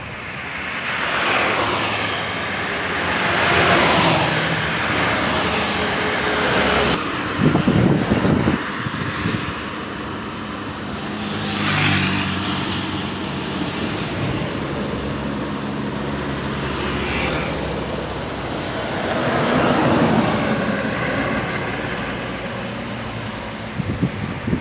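Heavy road vehicles, buses among them, passing close by on a highway one after another. Each pass swells and fades with engine and tyre noise, and a loud, deep exhaust rumble comes about seven seconds in.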